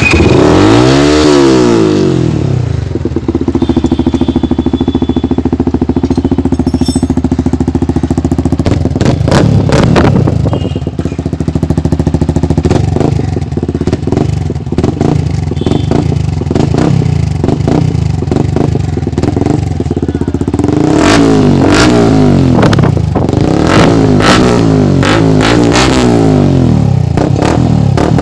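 Yamaha R15 V2's single-cylinder engine running through a freshly fitted Jewel Joseph full-system aftermarket exhaust. It is revved up and down once, settles to a steady idle, then is blipped and revved repeatedly, with sharp crackles among the later revs.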